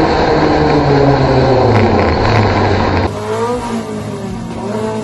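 Race car engines at full throttle. For the first three seconds the engine pitch falls steadily; then an abrupt cut to another recording, where an engine revs up and drops repeatedly as it shifts through the gears.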